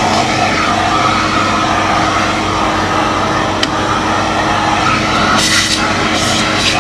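Kärcher MV6 P Premium wet-and-dry vacuum cleaner running steadily over a steady machine hum, with a sharp click about halfway through and louder hissing surges of suction near the end.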